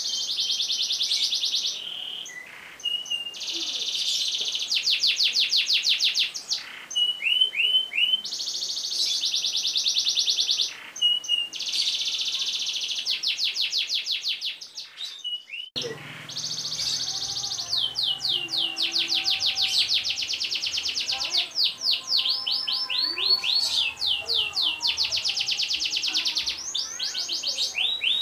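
Domestic canary singing long rolling trills: runs of very rapid repeated notes and quick rising chirps, each lasting a second or two with short breaks between. About halfway through there is a brief drop-out, and faint low background noise comes in after it.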